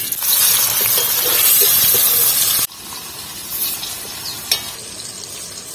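Paneer cubes sizzling as they fry in hot oil in a kadai. The sizzle is loud, then drops abruptly to a quieter sizzle about two and a half seconds in, with one sharp click near the end.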